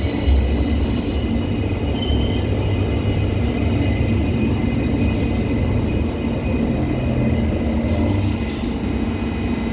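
Electric train running: a steady low rumble with a constant high-pitched whine.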